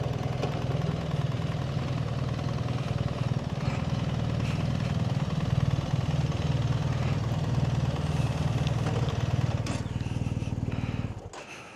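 BMW GS Adventure boxer-twin motorcycle engine running steadily at low revs, then cutting off shortly before the end.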